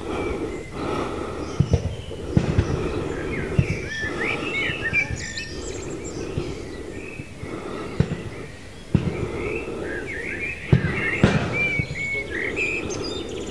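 Birds chirping and singing in short bursts of quick high notes, twice in clusters. Underneath is a steady low rumble with several brief low thumps, which are the loudest moments.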